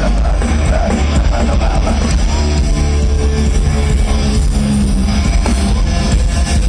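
Loud heavy metal music with distorted electric guitars and a heavy bass, playing without a break.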